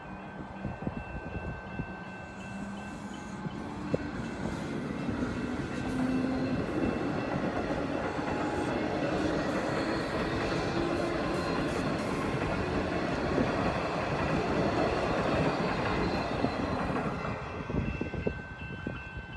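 Electric suburban train passing through a level crossing, its wheels clattering over the rails, growing louder for a few seconds, staying loud, then fading as it draws away near the end. The crossing's warning bells ring steadily throughout, heard plainest at the start and end when the train is quieter.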